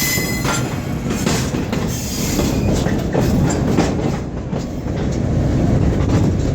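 Short train of a 1942 GE 45-ton diesel-electric switcher, flat car and caboose, heard from aboard as it rolls along at low speed: a steady rumble of engine and steel wheels with scattered clicks over rail joints. There is a brief high wheel squeal right at the start.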